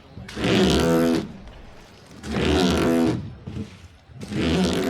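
Wooden boat's oar creaking against its rope lashing at each rowing stroke, a drawn-out creak about a second long repeating about every two seconds.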